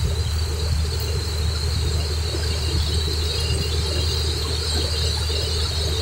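Heavy rain pouring steadily onto open paving and a lawn: a dense, even hiss with a low rumble beneath and a steady high band on top.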